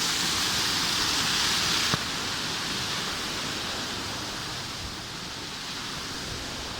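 Steady rushing hiss of a waterfall. It drops to a quieter level just after a click about two seconds in.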